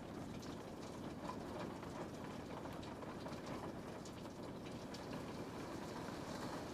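Steady rain falling on a window pane, a continuous hiss with many small scattered drop ticks.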